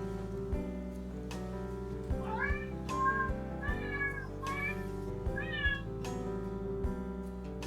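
A domestic cat meowing several times in quick succession, short rising and falling calls, over background music with a steady beat.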